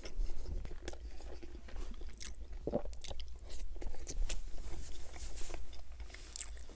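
Close-miked chewing of a Burger King Whopper Jr. bun and burger: wet mouth sounds with scattered clicks, smacks and soft crunches. Near the end, a paper napkin rustles against the mouth.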